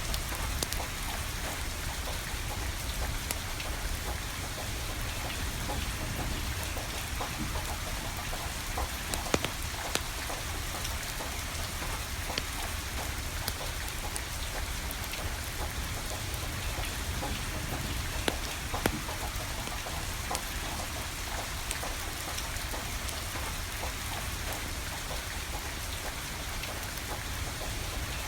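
Steady rain falling, with a wood fire crackling: scattered sharp pops throughout, a few louder ones about nine seconds in and again near nineteen seconds.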